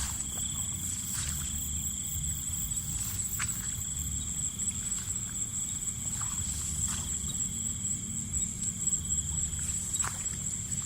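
Steady chorus of insects, two high continuous tones held throughout, over a low rumble with scattered light clicks and rustles.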